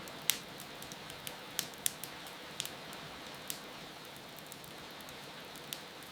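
Wood fire crackling, with sharp irregular pops, the loudest near the start and at about two seconds, over a steady hiss of rain.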